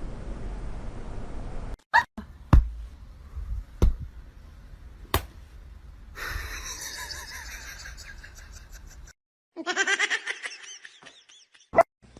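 A few sharp knocks, then a person laughing in quick repeated bursts.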